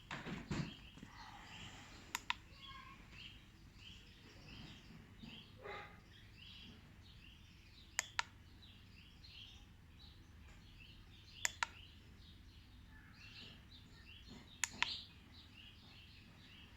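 Small birds chirping steadily in the background. Sharp double clicks, like a button or switch being pressed, come four times, a few seconds apart.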